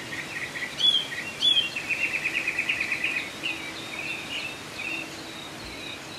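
Songbirds singing: short whistled chirps, then a fast trill of many quick notes through the middle, over steady background noise with a faint low hum.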